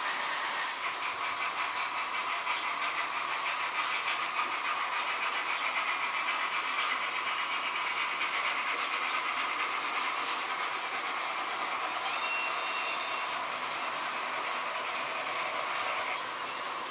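H0-scale model trains running on the layout: a steady whir of small locomotive motors and wheels clicking over the rail joints. A brief thin squeal is heard about twelve seconds in.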